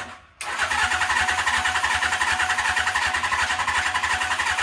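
1978 Suzuki GS750's electric starter cranking the inline-four engine without it catching. It starts about half a second in and goes on steadily, with a whine over rapid even pulses. The owner puts the engine's reluctance down to fuel that has not yet worked down into it.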